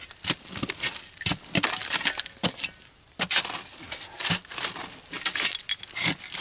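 Digging in dirt packed with old glass: irregular sharp scrapes and knocks of a digging tool, with glass clinking and chinking against it.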